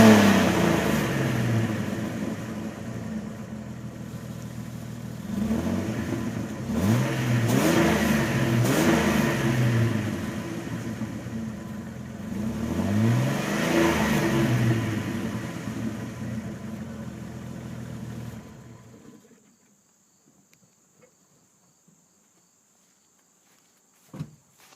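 2001 Jeep Wrangler's 4.0-litre straight-six on its stock exhaust, revved several times and let fall back each time, then running steadily. The engine cuts off about three-quarters of the way through, and a couple of knocks follow near the end.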